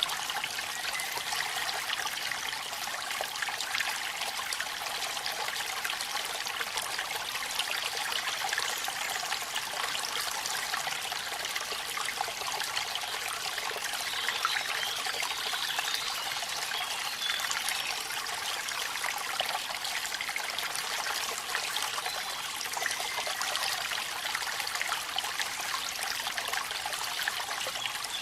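Steady splashing rush of a waterfall in rain: a continuous hiss of falling water with a dense patter of drops, even throughout.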